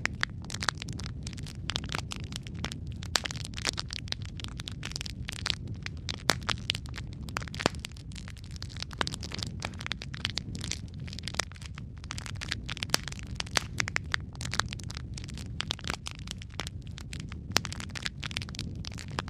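Wood fire in a fireplace, logs burning with dense, irregular crackling and sharp pops over a steady low rumble of the flames.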